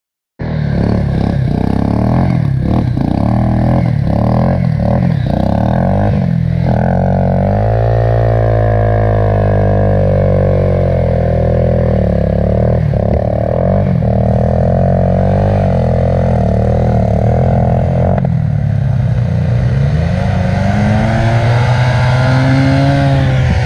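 Enduro motorcycle engine running as the bike is ridden, the revs rising and falling with the throttle, with knocks and clatter through the first several seconds. It starts suddenly about half a second in.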